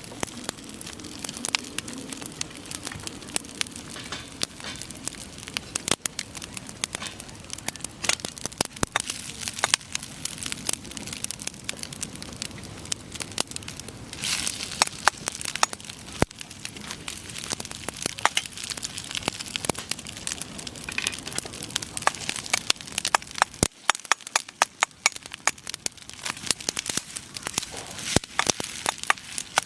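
Wood campfire crackling, with irregular sharp pops and snaps of burning firewood over a soft hiss.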